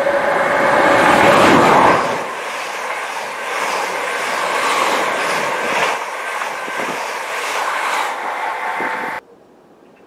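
Electric multiple-unit train passing at speed on the platform road: a loud rush of wheel and air noise that peaks in the first two seconds as the front goes by, then a steadier rumble with repeated clacks of the wheels over the rails as the carriages pass. The sound cuts off suddenly near the end.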